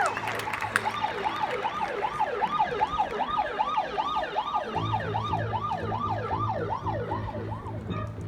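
A siren effect in a marching band show: several overlapping rapid rising-and-falling wails, like a police yelp siren. A low steady hum comes in about halfway through.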